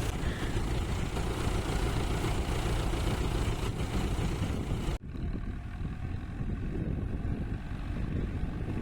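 Tractor engine running steadily. About five seconds in the sound cuts abruptly and then goes on duller, with less in the highs.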